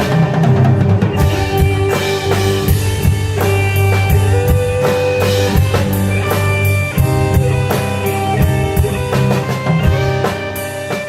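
A band playing an instrumental passage with no singing: a drum kit striking many quick hits over held guitar notes.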